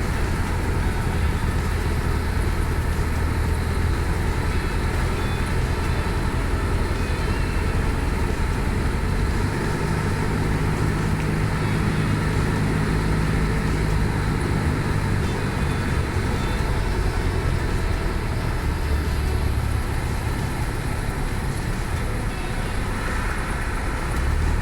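Cockpit noise of a Cessna 172 on final approach to landing: the four-cylinder piston engine and propeller droning steadily, mixed with airflow noise. The low hum shifts in pitch a couple of times.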